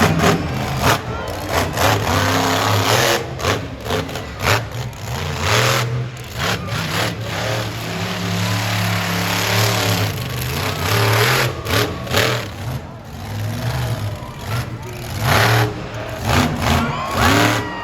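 Monster truck engine running and revving, a low hum that holds steady for stretches, with sharp cracks and noisy surges through it.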